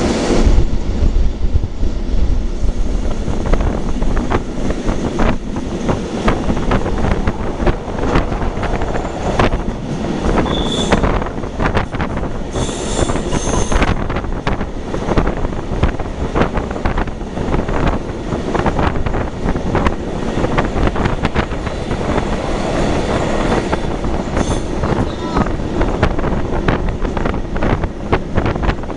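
Historic train of old 'Centoporte' carriages rolling past, its wheels clattering steadily over the rail joints. Brief high squeals of wheel on rail come about a third of the way in and once more later on.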